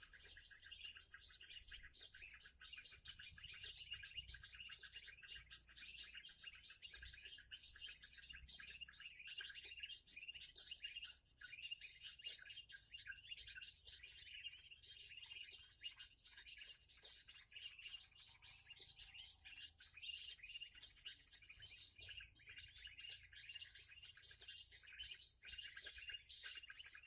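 Faint, dense high-pitched bird chirping and trilling, rapid and unbroken.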